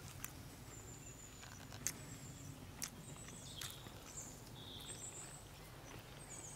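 Faint outdoor ambience: small birds chirping, short high calls every second or so, with a few soft clicks.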